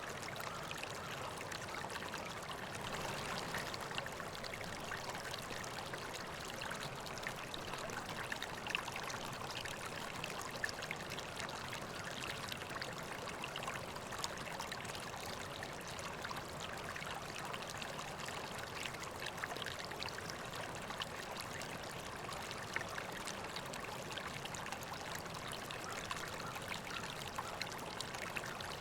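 River water flowing steadily over rocks, a continuous rushing babble with small splashes and trickles scattered through it.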